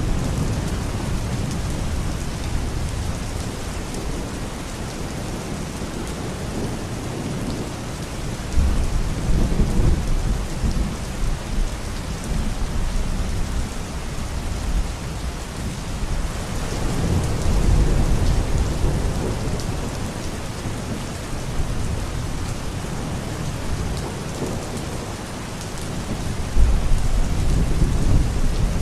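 Steady rain, with low rumbles of distant thunder swelling three times.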